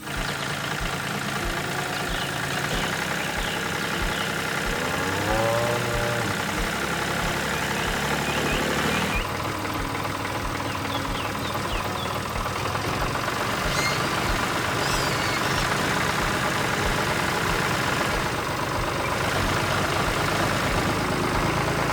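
Engine running steadily with a regular low knock about twice a second; a cow moos once about five seconds in, and birds chirp now and then.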